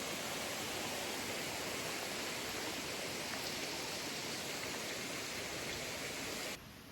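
Steady rush of flowing or falling water, as from a forest waterfall or creek. It cuts off suddenly near the end.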